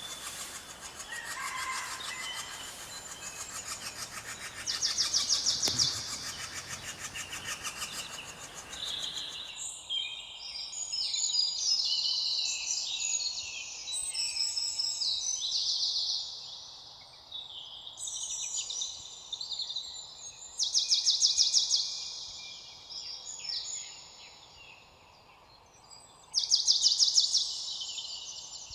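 Birdsong: several birds chirping and singing, with loud, fast, high trills recurring about five seconds in, and then twice more about twenty-one and twenty-seven seconds in. A background hiss under the song cuts off abruptly about nine and a half seconds in.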